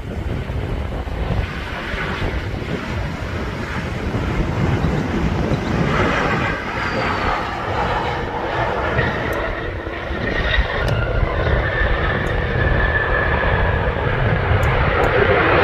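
Airliner jet engines running with a heavy low rumble, and a steady engine whine joining about halfway through.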